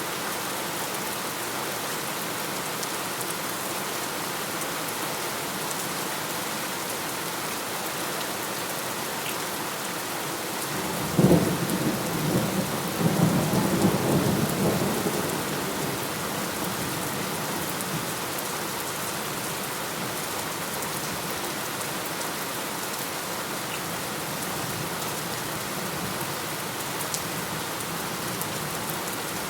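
Steady heavy rain falling, with a clap of thunder about 11 seconds in: a sudden sharp crack that rolls on as a low rumble for about five seconds before the rain alone continues.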